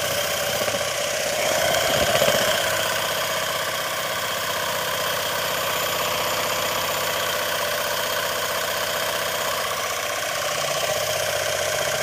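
Small brass model mill steam engine, 1-inch bore by 1 5/8-inch stroke, running fast and steady at about 40 psi, a continuous rapid exhaust chuff and mechanical clatter.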